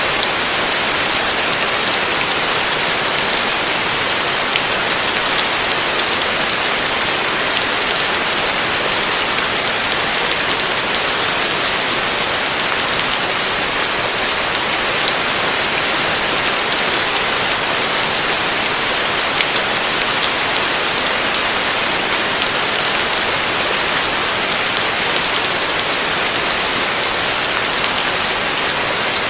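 Heavy rain falling steadily on a roof: a dense, even hiss of countless drops.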